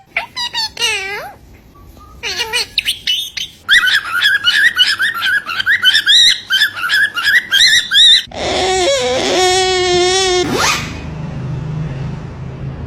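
Pet parrot calling: a few swooping whistles, then a long run of rapid, high, chirpy chatter, followed by a lower, drawn-out call about three quarters of the way through.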